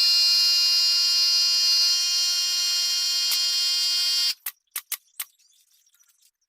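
A power tool's loud, steady, high-pitched whine that cuts off suddenly about four seconds in, followed by a few sharp knocks.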